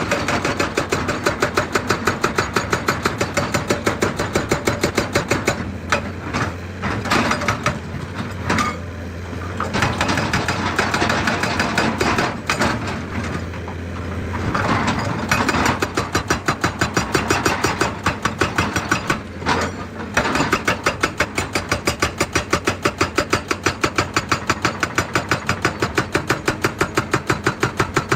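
Excavator-mounted hydraulic rock breaker hammering rock: a rapid, regular train of heavy blows over the running diesel engine, stopping briefly a few times in the middle before hammering on.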